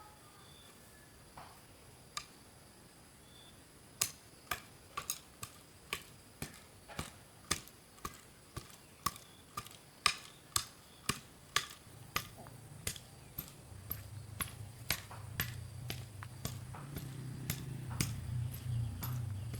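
A steady series of sharp knocks, about two a second, starting about four seconds in, with a low hum that grows louder in the second half.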